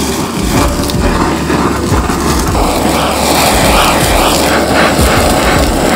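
Chicken pieces and diced carrots searing in hot oil in a cast-iron pan: a loud, steady sizzle with fine crackling.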